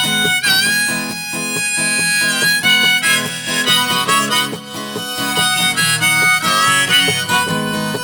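Instrumental break in a folk ballad: a harmonica plays a melody of long held, bending notes over guitar accompaniment.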